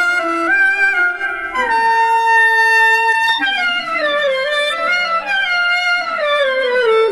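Clarinet-like melody from a Zoom G3n multi-effects patch: a long held note, then a stepwise descending run.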